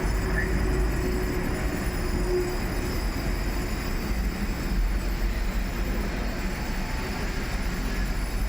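A train running past with a steady low rumble, with a faint steady whine in the first couple of seconds.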